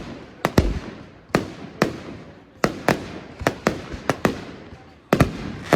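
Firework shells bursting overhead in quick succession: about a dozen sharp bangs at uneven intervals, some in close pairs, each trailing off in a fading echo.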